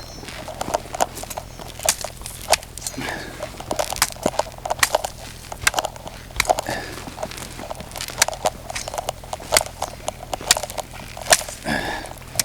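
Footsteps crunching through ice-crusted snow, an irregular run of sharp crunches and crackles.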